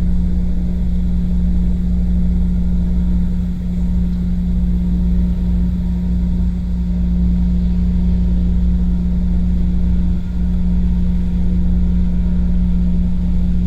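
A boat's diesel engine running steadily: a constant low drone with a steady hum.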